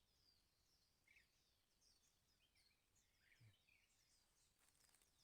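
Faint, high chirps of small birds calling over and over, short downward notes scattered through a very quiet background.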